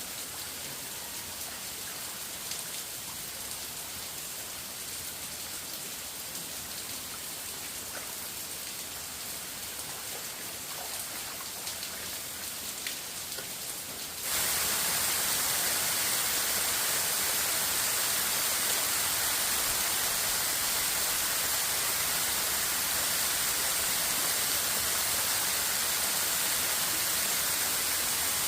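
Steady rain-like hissing noise with a few faint patters, which jumps abruptly to a louder, brighter hiss about halfway through and stays steady after that.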